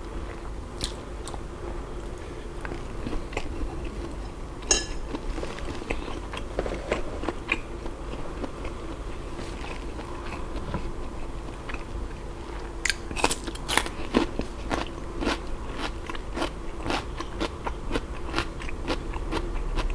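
Close-miked chewing and biting of grilled, mala-sauced bacon-wrapped sausage: wet mouth smacks and crunchy clicks, denser and louder in the second half.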